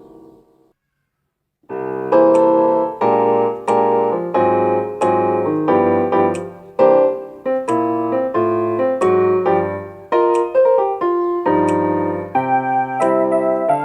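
Electronic keyboard playing a piano sound: a held chord fades out, a second or so of silence follows, then a melody with chords starts up again as a steady run of struck notes.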